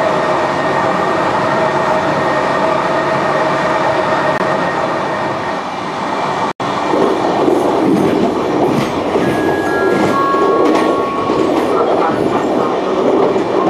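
Passenger train running on the rails: a steady rumble with a faint whine, then, after a brief break about halfway, a rougher rumble with wheel clicks and a few short high tones.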